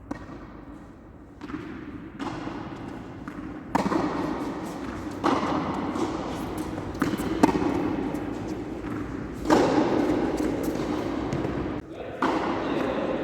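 Tennis ball struck by rackets during play: a few sharp, separate knocks over a background murmur of voices.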